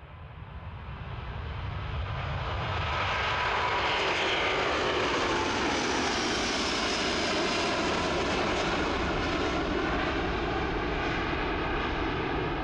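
Airbus A330-900 jet engines at takeoff power, growing louder over the first few seconds and then running steady and loud, a broad rush with a faint whine on top.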